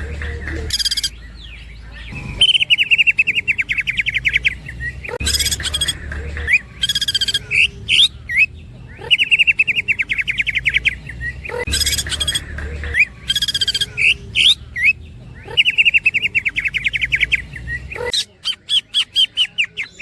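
Greater green leafbird (cucak ijo) calling in a repeating phrase: a harsh burst, then a rapid rattling trill like woodpecker tapping, then a few short rising chirps, about every three and a half seconds. Near the end comes a fast run of sharp clicks.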